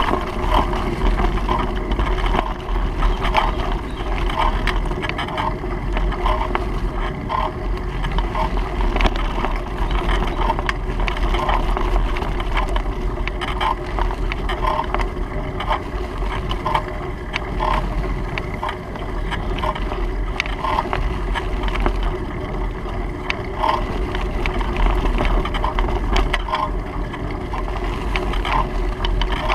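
Steady wind and road noise from a moving bicycle, with a low rumble of wind on the microphone and a light, irregular ticking about once or twice a second.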